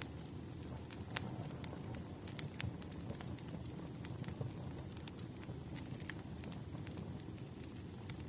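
Burning firewood crackling, with irregular pops and snaps over a low steady rumble.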